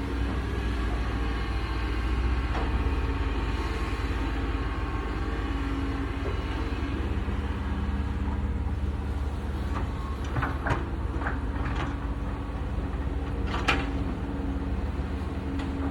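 Excavator engine running steadily with a low rumble. In the second half come several sharp knocks, the loudest near the end.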